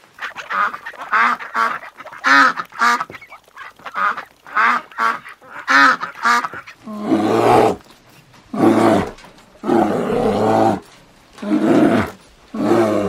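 Domestic ducks quacking: a quick run of short calls, followed about halfway through by several longer, deeper calls spaced a second or so apart.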